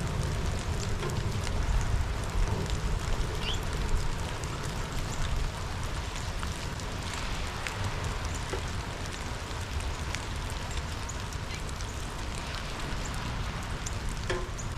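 Steady rain falling, an even hiss with scattered ticks of individual drops over a low rumble.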